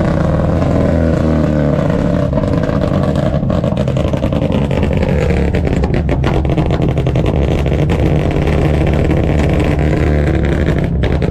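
Car engine running loudly, its pitch sinking slowly over the first few seconds.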